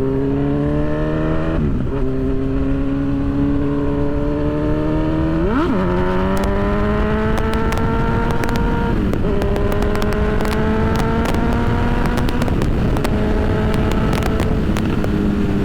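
Motorcycle engine accelerating and shifting up through the gears: its pitch climbs, drops at each upshift, about four times, then climbs again, over steady wind rush.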